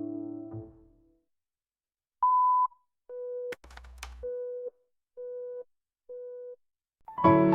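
The last chord of a pop song fades out, and after a short silence comes a series of electronic telephone-style beeps: one higher beep, then four lower beeps about a second apart, with a brief click and low thump after the first of them. Near the end a new song starts with piano chords.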